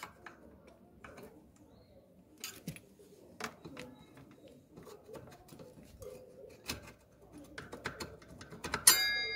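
Scattered light clicks and knocks of metal tools against a motorcycle disc-brake caliper as it is worked open, then near the end a sharp metallic clank that rings on with a clear tone.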